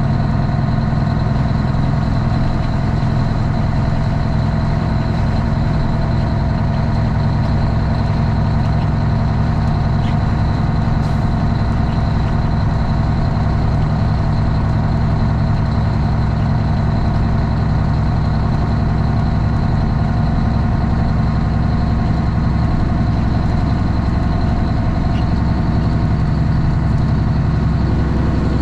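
Straight-piped Cummins ISX inline-six diesel in a Kenworth T800 running steadily at an even speed, heard from inside the cab.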